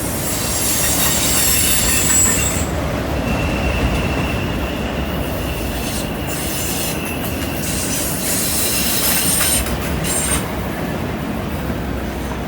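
Freight train cars rolling through a curve, wheels squealing against the curved rail over a steady rumble. A high squeal comes in two spells, near the start and again after about 8 seconds, with one steady squealing tone between them.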